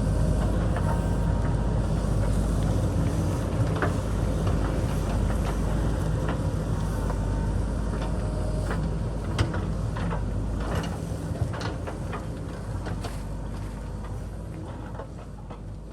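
JCB backhoe loader's diesel engine running steadily, with scattered sharp clicks and knocks that come more often in the second half. The sound grows gradually quieter toward the end.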